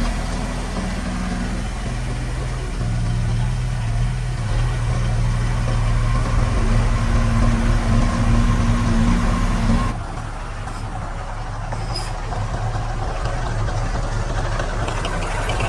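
Diesel engine of heavy earthmoving machinery running, its pitch shifting a few times as the load or throttle changes. The sound changes abruptly about ten seconds in.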